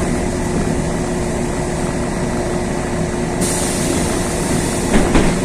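Cabin noise of a LiAZ 6213.22 articulated city bus: a steady drone and rumble with a constant hum. A high hiss comes in a little past halfway, and a couple of light clicks sound near the end.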